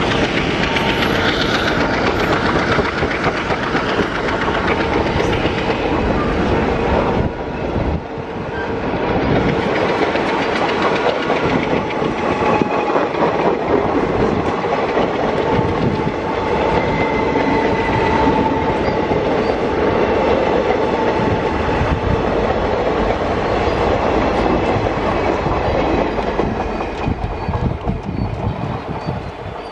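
Express train passenger coaches rolling past at speed, a loud continuous rush of wheel and track noise with many small knocks. The noise dips briefly about a quarter of the way through and falls away near the end as the rake recedes.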